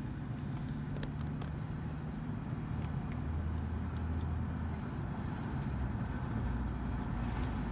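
Car driving along, heard from inside the cabin: a steady low engine hum and road noise, with a few faint ticks.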